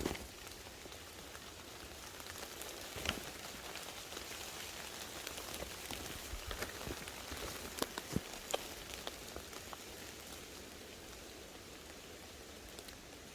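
Rain falling steadily, a soft even hiss with scattered sharp drop ticks.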